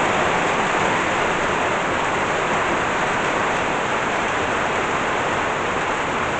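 Steady rain from a thunderstorm, falling evenly without letting up.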